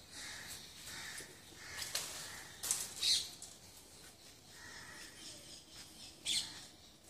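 Quiet outdoor ambience with faint bird chirps and a few short, sharp clicks, the loudest about three seconds in and again past six seconds.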